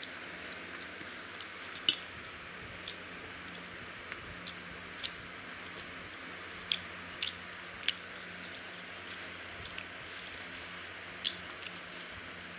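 Two people eating rice and chicken curry by hand: scattered, irregular wet clicks of chewing and lip smacking, the loudest about two seconds in, over a steady background hiss.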